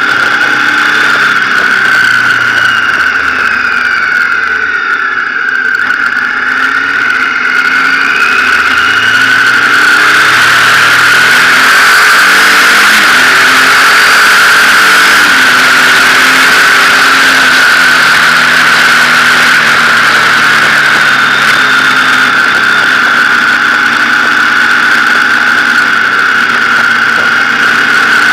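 Motorcycle engine running on the move, its pitch rising and falling again and again with throttle and gear changes, under a rush of wind that grows louder after about ten seconds. A steady high whine sits over it throughout.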